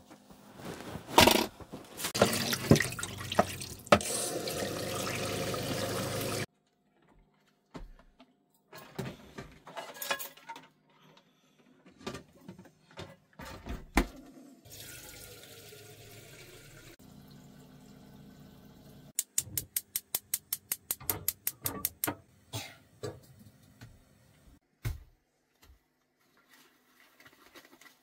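Water running for a few seconds and then stopping suddenly, followed by scattered knocks and handling sounds and a quick run of about a dozen sharp clicks, about four a second, around two-thirds of the way through.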